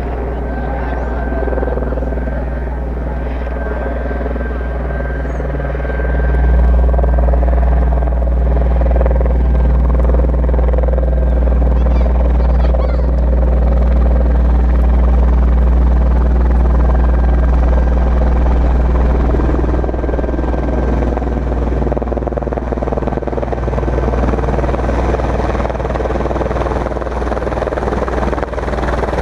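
Fire brigade helicopter flying, its rotors making a steady, deep, low throb. It grows louder about six seconds in.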